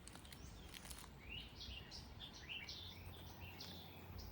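A songbird singing a quick run of short, faint chirping notes, about a dozen of them, starting about a second in.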